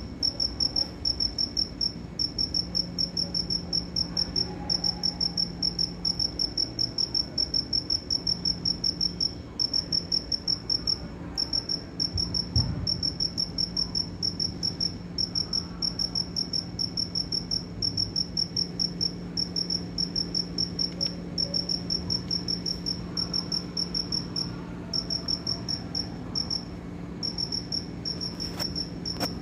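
A cricket chirping: rapid, even trains of short high-pitched pulses, several a second, in long runs broken by brief pauses. A faint low steady hum lies underneath.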